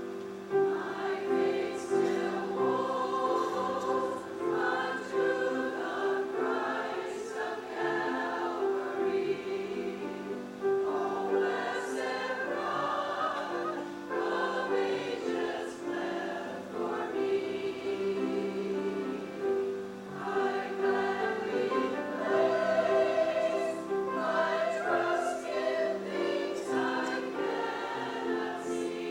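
A choir singing a hymn, sustained voices in several parts with a steady accompaniment.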